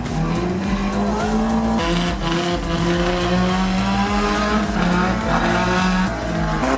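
Demolition derby cars' engines running hard and revving, with tyres squealing; a strong pitched drone that holds and jumps in pitch several times.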